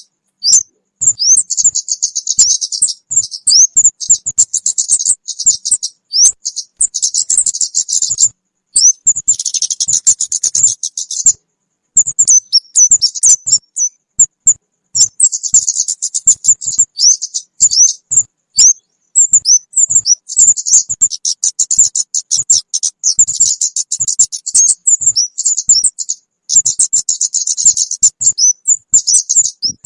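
Bird-lure recording of kemade calls: high, rapid chirping and twittering of a small bird in bursts of a few seconds, with short pauses between them.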